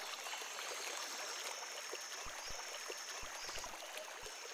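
A river flowing, a steady gentle rush of water with a faint high tone running through it.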